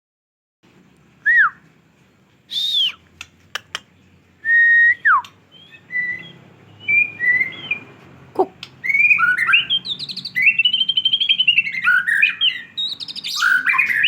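White-rumped shama singing after its moult. It gives a few separate clear whistles and downward-sliding notes, then from about nine seconds a fast, unbroken run of varied whistles and trills: the full-song bursts that hobbyists call 'tembakan', the sign of a bird back in condition.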